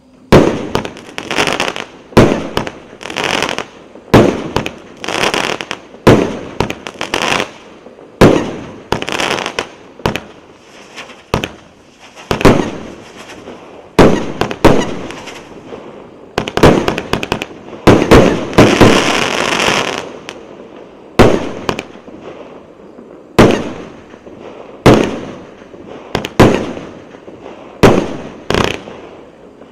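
A 25-shot, 1-inch-calibre consumer fireworks cake firing its shots one after another, roughly one every second or two. Each shot is a sharp bang that dies away over about half a second.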